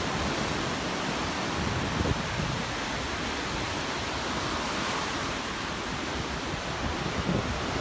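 Steady wash of surf with wind rumbling on the microphone.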